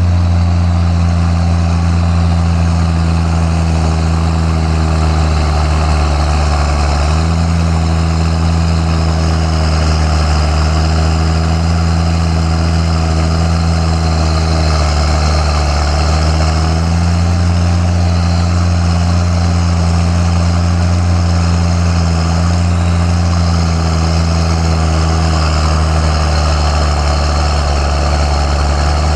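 John Deere 7710 tractor's six-cylinder diesel engine running steadily at low speed, with slight shifts in engine speed about a quarter of the way in and again just past halfway.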